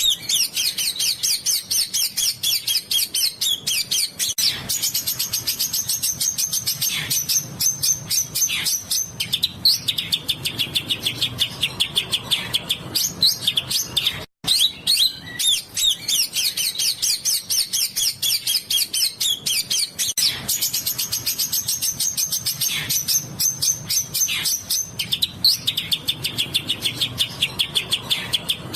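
Small songbirds singing in rapid, high-pitched bursts of quickly repeated chattering notes, as on a masteran tutor recording for caged songbirds. The sound cuts out briefly about halfway through, and then the same sequence starts again.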